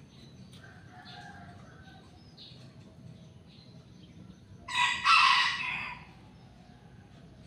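Rooster crowing once, a loud call of just over a second about five seconds in, over faint chirping of small birds.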